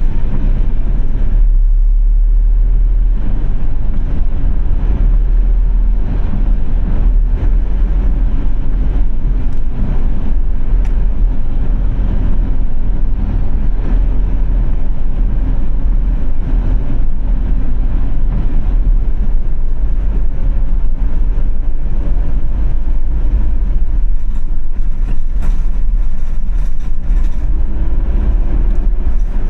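A car driving: a steady, loud low rumble of road and engine noise picked up by a camera mounted on the car, with a faint rising engine note near the end.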